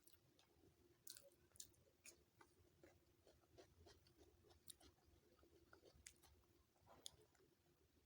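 Faint, close chewing of chicken biryani: scattered small wet mouth clicks and smacks, a few sharper than the rest, over a faint steady hum.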